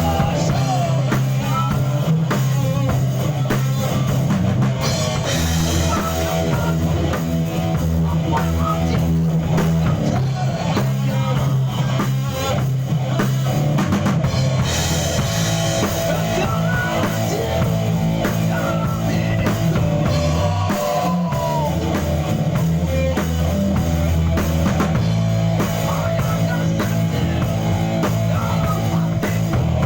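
A band playing a rock song on drum kit and guitar, steady and continuous.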